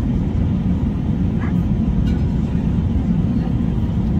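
Steady low rumble of a vehicle in motion, heard from inside, with a faint short chirp and a click about halfway through.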